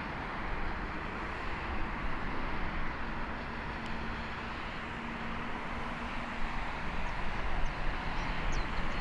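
Steady rumble of a departing Airbus A321neo's jet engines as it climbs away, an even roar with a faint hum joining in for a few seconds in the middle.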